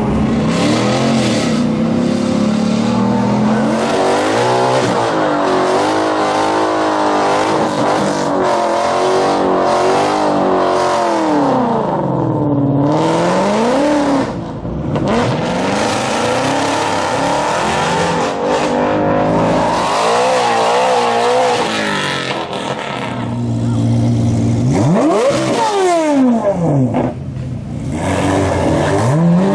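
Car engines revving hard and accelerating, their pitch rising and falling again and again, as cars pull away at a car meet.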